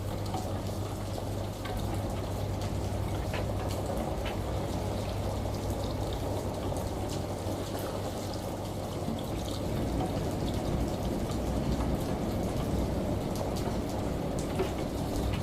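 Steady rain and running water with scattered drips, over a constant low hum.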